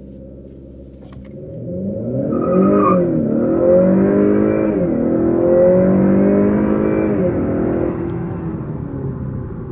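The 2019 Honda Accord 2.0's turbocharged four-cylinder idles, then accelerates hard from a stop at full throttle. Its pitch climbs and drops back at three upshifts of the 10-speed automatic, then eases off near the end as the run finishes.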